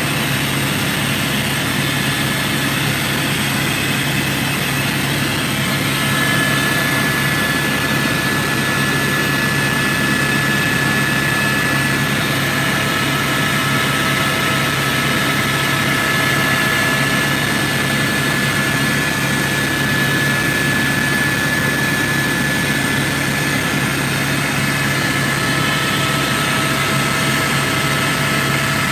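Helicopter engine and rotor noise heard from inside the cabin: a loud, steady drone, with a thin high whine that comes in about six seconds in.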